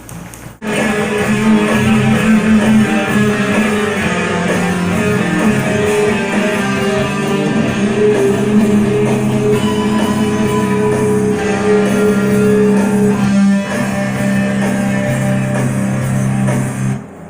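Guitar-led rock song with bass and held, sustained notes; it starts abruptly about half a second in and cuts off sharply near the end.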